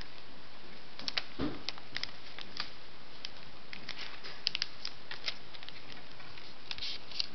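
Sheet of paper being folded and creased by hand: scattered short crinkles and crackles over a steady hiss, with one soft thump about a second and a half in.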